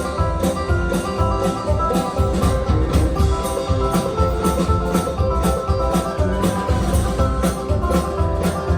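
Bluegrass band playing an instrumental break between sung verses: plucked strings over a bass line, at a steady beat.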